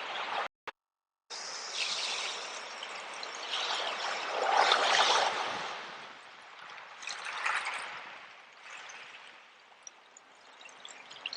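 Sea waves washing in and drawing back, swelling loudest about four to five seconds in and again near seven and a half seconds, then easing off. A short break to silence comes about half a second in.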